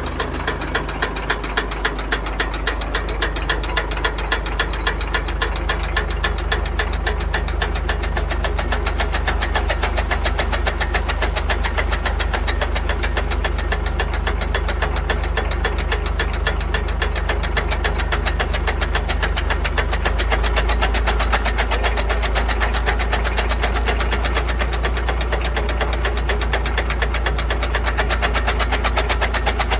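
YTO Agri Master 854P tractor's diesel engine running steadily with a rhythmic clatter. It grows slightly louder over the first few seconds, and the low hum changes about two-thirds of the way through.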